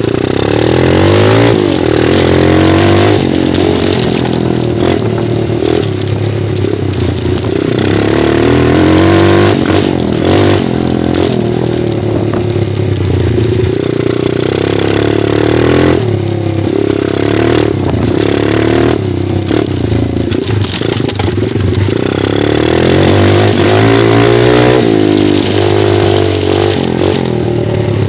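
Dirt bike engine being ridden, its pitch climbing and dropping again and again as the throttle is opened and closed and it shifts through the gears.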